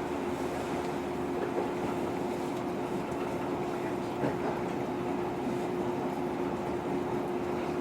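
Interior sound of a JR 115 series electric train car: a steady hum with one constant mid-pitched tone over even low rumbling noise.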